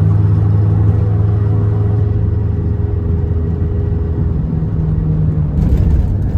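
Car engine running steadily with a low, even drone. A short burst of hiss comes near the end.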